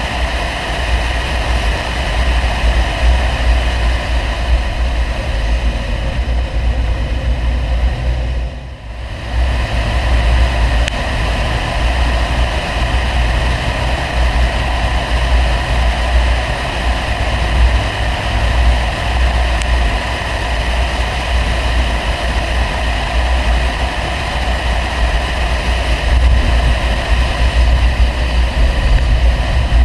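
Audi 100 2.3 quattro's inline five-cylinder engine running through an aftermarket CAC exhaust while driving: a steady, deep drone that drops away briefly about nine seconds in and then picks up again.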